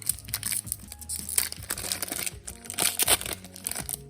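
A Crown Zenith Pokémon booster pack's foil wrapper crinkling and tearing as it is ripped open by hand, a dense crackle that dies away at the end.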